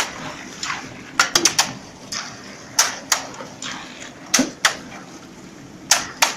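Irregular sharp knocks and clacks, some in quick pairs or clusters, over a steady low background noise.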